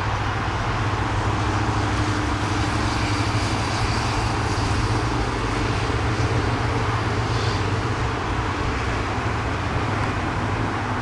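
Jet airliner engines making a steady roar, with a faint high whine above it.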